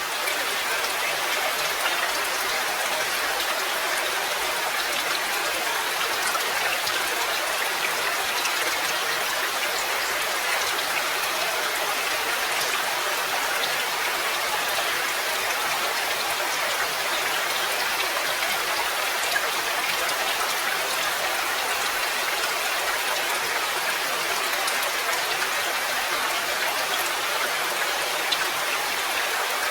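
Steady rain: an even hiss of falling water with fine, scattered drop ticks, unchanging in level throughout.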